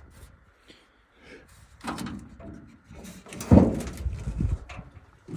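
Metal clunks and clatter from the body of an old Ford F100 pickup, with one heavy thump about three and a half seconds in, followed by a second of low rattling.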